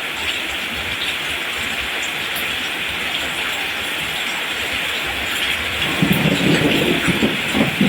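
Steady rain falling, an even hiss throughout. A low rolling rumble of thunder comes in about six seconds in and grows to the loudest sound by the end.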